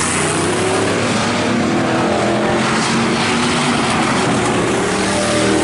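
IMCA Hobby Stock race cars running laps together on a dirt oval, several engines under power at once, a steady engine din whose pitches shift slightly as the cars go around.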